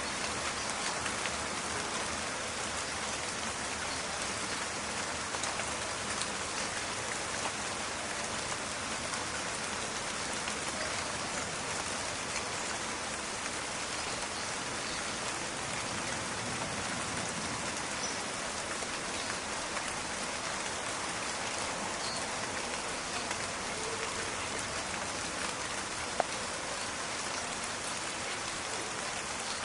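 Steady rain in a forest, a dense, even patter of drops with fine crackling ticks. A single sharp louder click stands out near the end.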